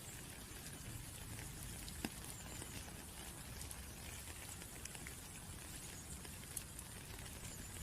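Rain falling, a steady light hiss with scattered individual drops ticking, one sharp drop about two seconds in.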